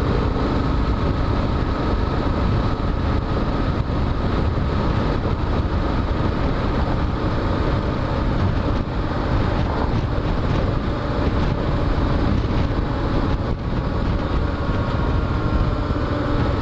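Wind rushing over the microphone of a moving Kawasaki KLR motorcycle, with the bike's single-cylinder engine running steadily underneath at an even speed.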